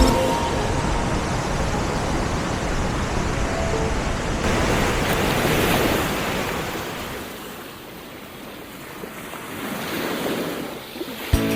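Sea surf: waves breaking and washing in, one swelling to a peak about six seconds in and fading, then another building near the end.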